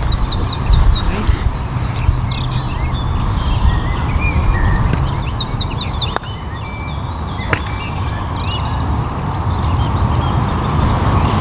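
Songbirds singing: bursts of quick, high, repeated chirping notes in the first two seconds and again around five to six seconds in, over a steady low rumble.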